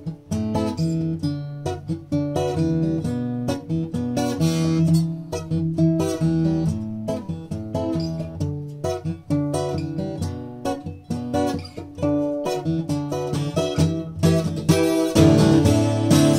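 FG-2500 acoustic guitar played as a sound test: a run of picked notes and chords that becomes fuller and louder strummed chords near the end.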